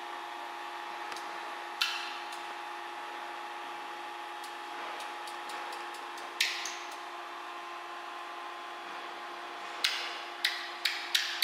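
A steady mechanical hum, with sharp metallic clicks or taps about two seconds in, about six seconds in, and several in quick succession near the end.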